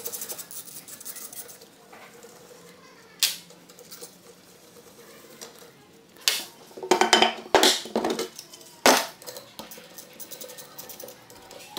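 Metal engine parts and tools clinking and clanking as they are handled and set down, with a few sharp knocks, most of them between about six and nine seconds in.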